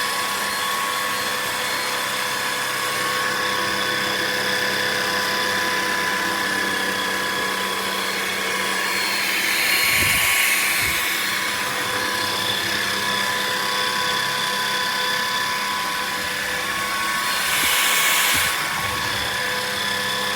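Levoit LVAC-200 cordless stick vacuum running with a steady high motor whine. A louder rushing swell comes about halfway through and another near the end.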